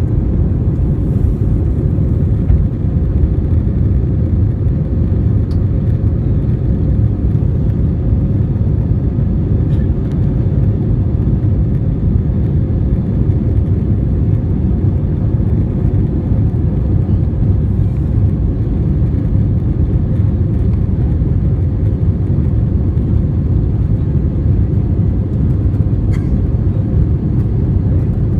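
Steady low rumble of an Airbus A320 heard from inside the passenger cabin during takeoff: engine and airflow noise.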